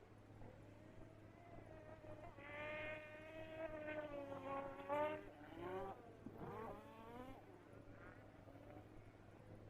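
A cat yowling: one drawn-out, wavering call of about five seconds that bends up and down in pitch and ends in a couple of sharp swoops. A steady low electrical hum lies underneath.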